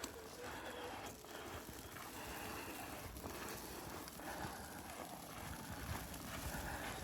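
Footsteps crunching through deep snow at a walking pace, each step a soft thud.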